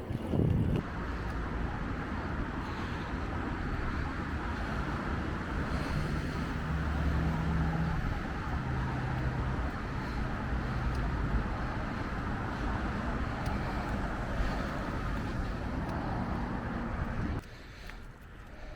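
Steady noise of a bicycle being ridden: tyres rolling and wind on the microphone, with a low engine-like hum through the middle. The sound drops off suddenly near the end.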